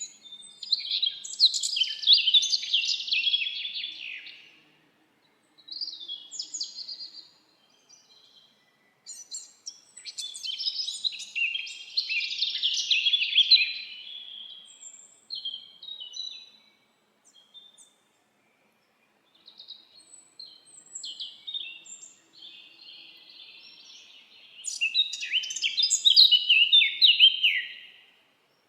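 Songbird song: long, rapid, twittering phrases of a few seconds each, high-pitched, with short pauses between them.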